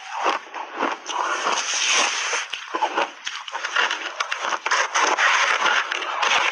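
Frozen shaved ice being bitten and chewed close to the microphone, a dense run of crunches and crackles.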